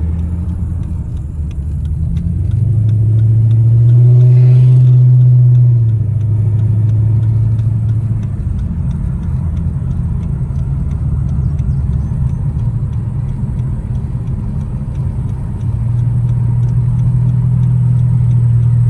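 Car engine and road noise heard while driving, a steady low drone that rises in pitch and loudness as the car speeds up a few seconds in, eases off, and picks up again near the end.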